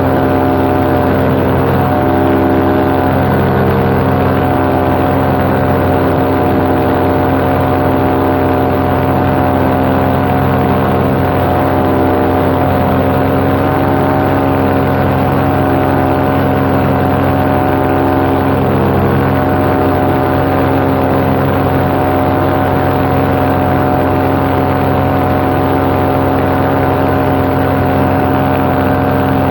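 Paramotor engine and propeller running steadily at cruise throttle, one constant drone with no change in pitch.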